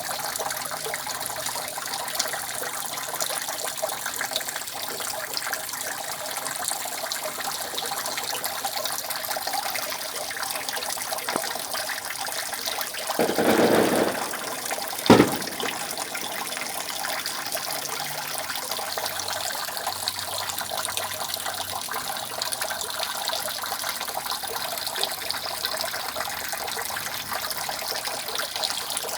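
Rainwater dripping continuously from a roof: a steady wash of water dotted with many small drip ticks. About halfway through, a louder rush swells for about a second, followed shortly by a single sharp knock.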